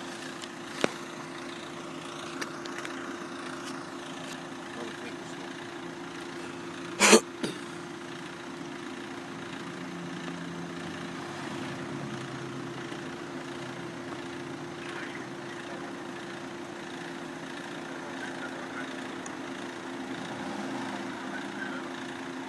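Car engine idling with a steady low hum, heard from inside the car. About seven seconds in comes one short, loud knock, and there are a couple of faint clicks before it.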